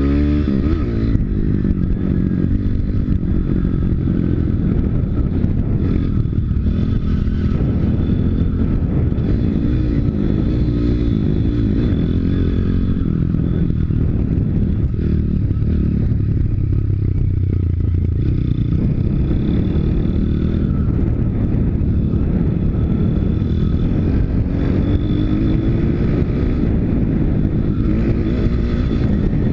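YX 160 cc single-cylinder four-stroke pit bike engine running while ridden, its revs rising and falling constantly as the throttle is worked.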